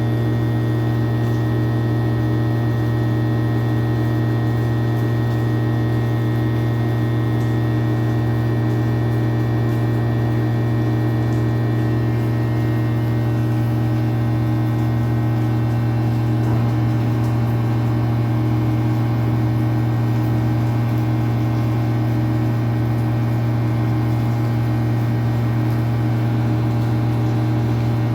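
Steady low hum of a small running motor, unchanging in pitch and level.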